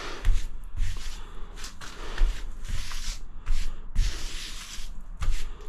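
Irregular rough scraping and rubbing strokes on a hard surface, each with a dull low bump.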